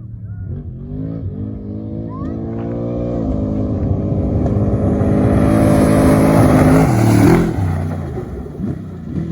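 A desert race vehicle's engine revving up as it pulls away, then running hard and passing close. It is loudest about seven seconds in, then falls off quickly with a drop in pitch as it goes by.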